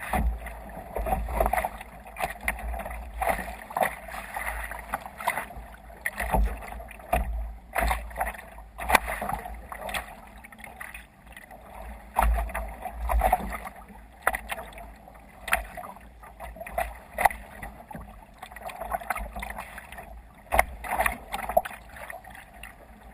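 Water splashing and slapping irregularly against a kayak's hull as it moves through waves, with gusty wind buffeting the microphone.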